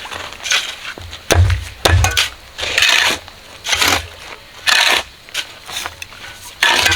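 Repeated scraping and knocking strokes, about one a second, a couple of them with a heavy low thud.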